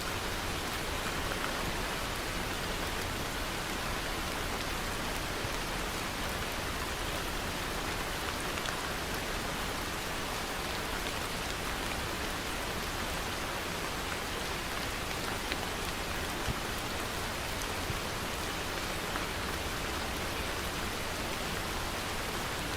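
Steady rain falling, an even hiss with faint scattered drop ticks on a surface.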